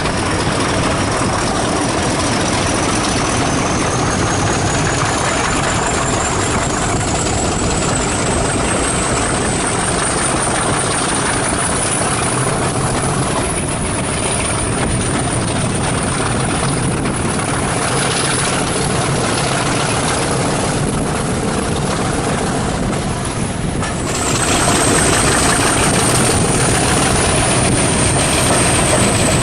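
Heritage diesel locomotive engine running, with a thin high whine over its steady noise that rises slowly in pitch for about the first twelve seconds, then holds. The sound changes abruptly about 24 seconds in, as at a cut to another shot, and the engine and whine carry on.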